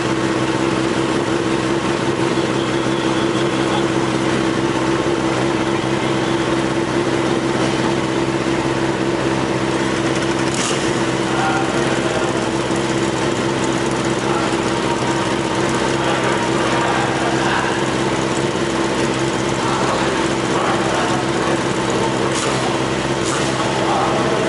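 Racing superbike's engine idling steadily, a constant even hum, with a few short clicks about ten seconds in and again near the end.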